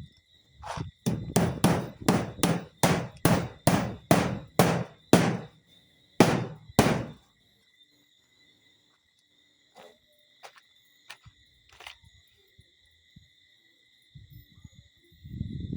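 Hammer driving nails into zinc roof sheeting: a quick run of about eighteen blows, close to three a second, that stops about seven seconds in, followed by a few faint taps.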